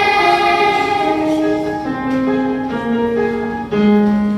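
Keyboard accompaniment playing the song's closing phrase: a slow run of held notes stepping down in pitch, about two a second, with a last low note held near the end.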